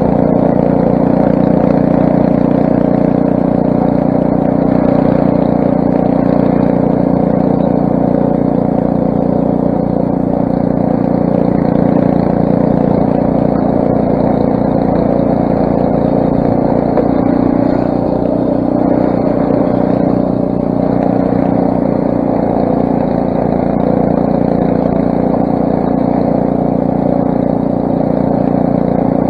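Craftsman snowblower's 6 hp Briggs & Stratton single-cylinder engine running steadily and loudly, with a slight dip in the note about two-thirds of the way through.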